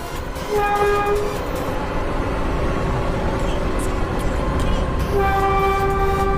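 Train horn sounding a short toot about half a second in, then a long steady blast starting near the end, over the rumble of the running train.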